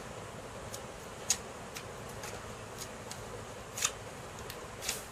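Red slime being squished and poked by hand, giving scattered small clicks and pops, two of them sharper at about a second in and near four seconds.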